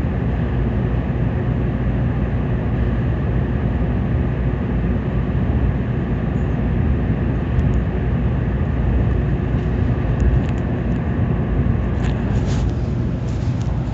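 Steady rumble of a Tokaido Shinkansen train running at speed, heard from inside the carriage, with a few faint clicks near the end.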